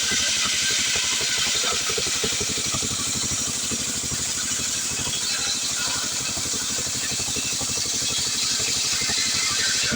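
Stihl 070 two-stroke chainsaw running steadily at high revs, sawing through a hardwood log.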